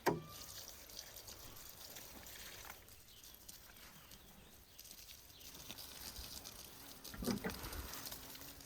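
Quiet outdoor rural ambience with two short animal calls, a loud one right at the start and a lower one about seven seconds in.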